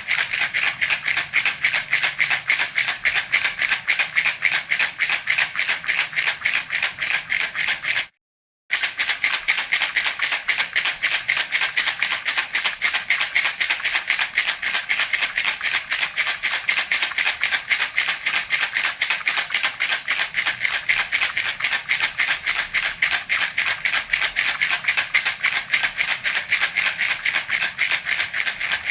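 Baby rattle (jhunjhuna) shaken rapidly and steadily, a fast even rattling of small beads inside, with a brief half-second break about eight seconds in.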